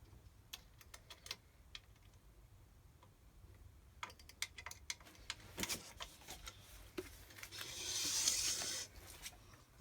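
Scattered small clicks and taps of hand tools and metal and plastic printer parts being handled while a limit switch is positioned and tightened on an aluminium frame profile, busier in the second half, with a brief scraping rustle near the end.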